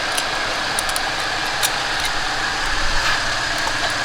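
Steady hiss over a low hum, with a faint steady high whine. This is the car's fuel system running under pressure, with fuel escaping at a loose line fitting.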